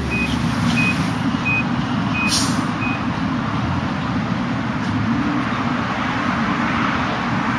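Steady vehicle engine and road rumble. A back-up beeper sounds five short beeps, about one every 0.7 seconds, and stops after about three seconds. A brief hiss comes about two seconds in.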